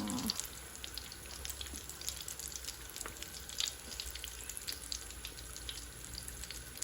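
Batter-coated potato chops deep-frying in a large pan of hot oil: a steady sizzle with many scattered crackling pops.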